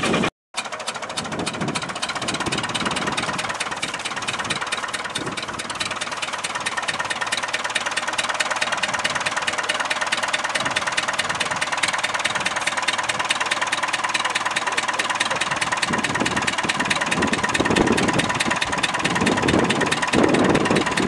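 Tractor engine running steadily with a rapid, even clattering beat. The sound drops out for a moment just after the start, and heavier low swells come in over the last few seconds.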